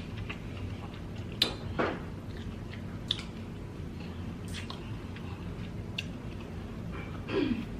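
Close-miked chewing of spicy seafood, with a few short sharp clicks along the way and a brief low vocal sound with falling pitch near the end.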